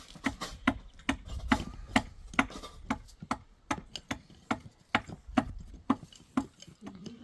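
Repeated sharp striking blows, about two to three a second in an even rhythm, like a tool hammering or chopping during tent building.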